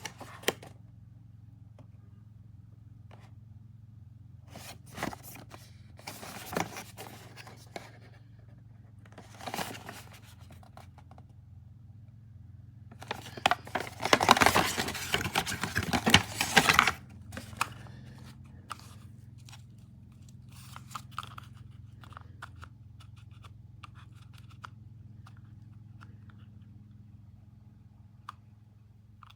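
Packaging or a small object being handled, with scattered clicks and rustles. Near the middle comes a loud tearing, crackling stretch of about four seconds. A steady low hum runs underneath.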